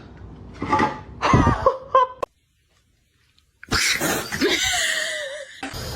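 Domestic cat meowing and yowling in two short clips, with one long wavering yowl in the second, separated by a second or so of dead silence.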